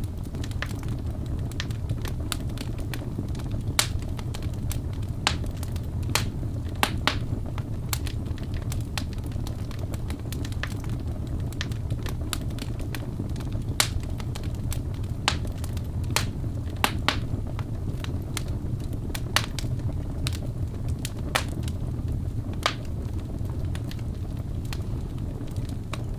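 Wood fire burning, with a steady low rumble and sharp, irregular crackles and pops from the burning wood.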